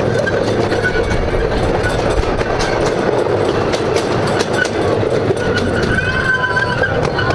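A small ride-on train running along its track: steady running noise with scattered sharp clicks from the wheels and rails.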